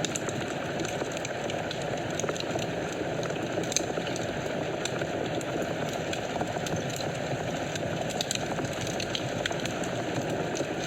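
Wood fire in a fireplace burning steadily: a low rushing hiss of flames with frequent small crackles and pops, one sharper pop a little under four seconds in.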